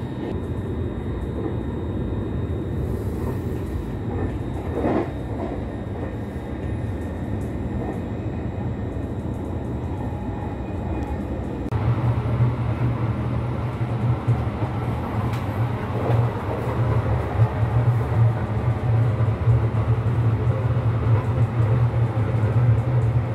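Running noise of a JR Kyushu limited express train at speed, heard from inside: a steady low rumble of wheels on rail. About halfway through it grows louder, out in the vestibule by the doors.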